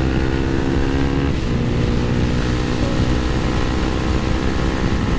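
Motorcycle engine running at a steady cruise, with wind rumbling on the microphone. The engine note changes briefly about a second and a half in.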